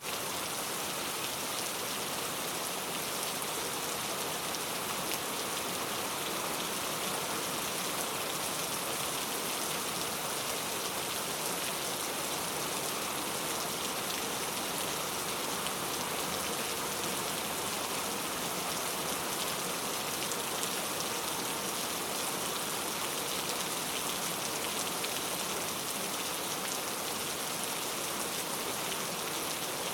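Steady rain falling: an even, unbroken hiss of many small drops that does not change in strength.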